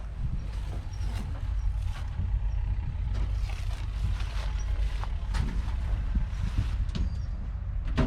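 A vehicle engine running with a steady low rumble, with scattered short knocks and clicks over it.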